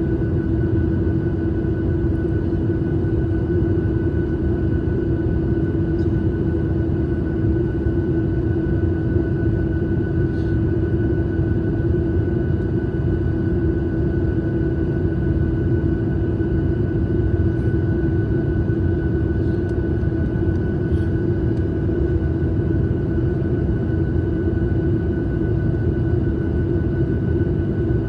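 Airliner cabin noise in flight: a steady rumble of engines and airflow, with a constant droning tone over it that does not change.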